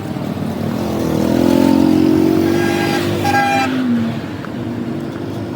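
Motor vehicle engine running, swelling in level and pitch about a second in and easing back down, with a short higher steady tone a little past three seconds in.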